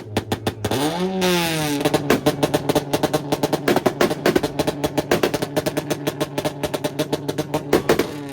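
Car engine held on a two-step launch limiter, its exhaust popping rapidly, about eight bangs a second, over a steady engine note. The revs rise and fall about a second in, and the popping stops abruptly near the end.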